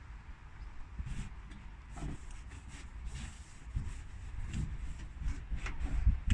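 Scattered light knocks and handling noises at irregular intervals over a low rumble, with no steady machine sound.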